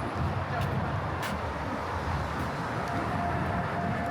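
Steady city street traffic rumble, with a couple of short clicks in the first second or so.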